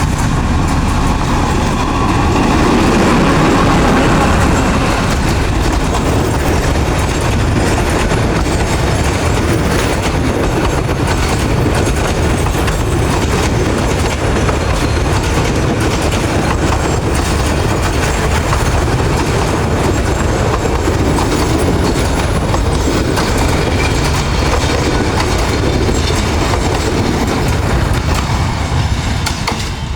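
Local passenger train running on the rails: a steady rumble with many sharp clicks from the wheels, loudest a few seconds in.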